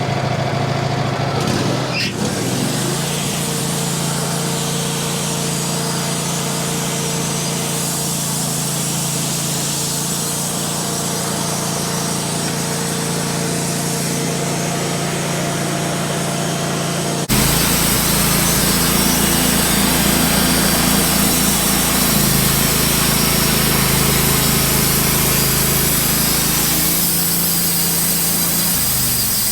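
Wood-Mizer LT15 portable band sawmill running and sawing slices off a soft maple log, a loud steady machine sound. A little over halfway through it switches abruptly to a fuller, lower sound.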